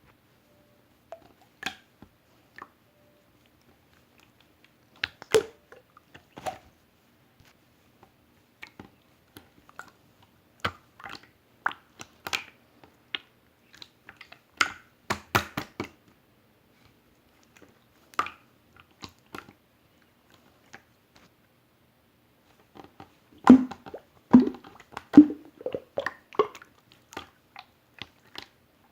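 Clear slime being squeezed and worked by hand, making irregular wet clicks and small pops, with a quicker run of louder pops near the end.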